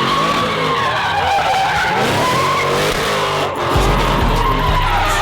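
Cars drifting: tyres squealing with a wavering pitch over engines revving. A deep low rumble comes in about three and a half seconds in.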